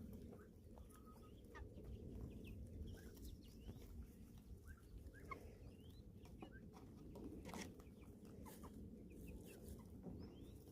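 Chickens clucking and peeping in short, scattered calls, faint over a steady low rumble.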